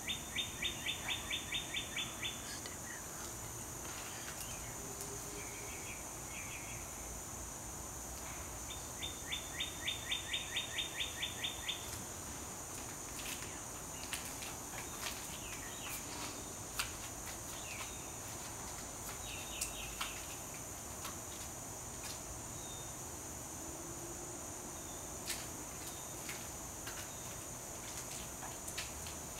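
A bird singing a fast run of about a dozen repeated chirp notes, at about five a second, twice: once at the start and again about nine seconds in. Under it is a steady high-pitched hiss, with a few faint clicks.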